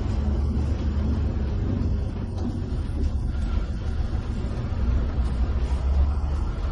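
Coach bus cruising on a highway, heard from inside the cabin: a steady deep rumble of engine and tyres on the road.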